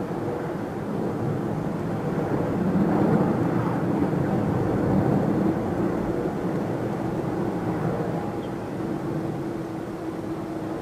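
Jet airliner engine noise heard from a distance: a steady rumble with a faint hum, swelling a little a few seconds in and easing off toward the end.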